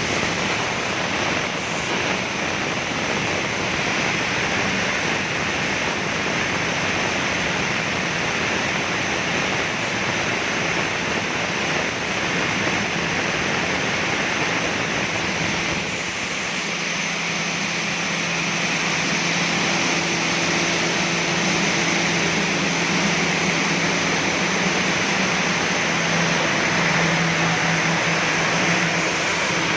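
Steady rush of air from the glass tempering furnace's blower fans, with a low machine hum that grows stronger about halfway through.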